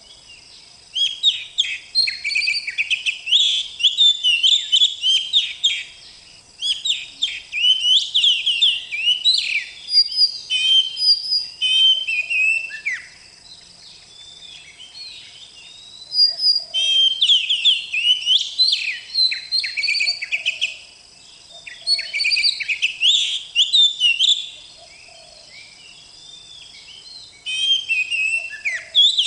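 Oriental magpie-robin singing in bursts of rapid, varied whistled phrases, each a few seconds long, with short pauses between.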